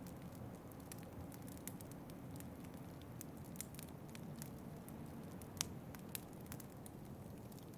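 Wood fire crackling in a fireplace: scattered sharp pops and snaps over a low steady rumble, the loudest pop a little past halfway.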